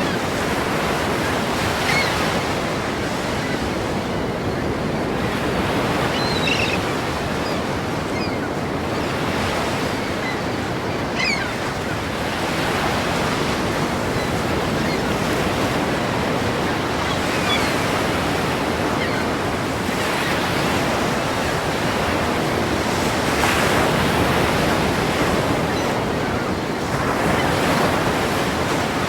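Ocean waves crashing against a pier: continuous surf that swells and falls every few seconds.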